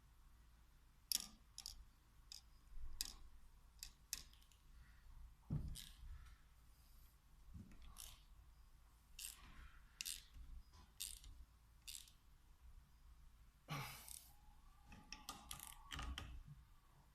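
Faint, irregular clicks and light metallic taps of small metal parts and hand tools being handled while a Bosch VE diesel injection pump is worked on.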